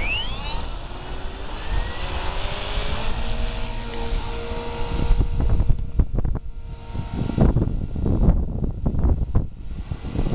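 Electric RC helicopter spooling up: the whine of the brushless motor and rotor rises steeply in pitch over the first two seconds, then holds steady. From about five seconds in, gusts of wind rumbling on the microphone cover it.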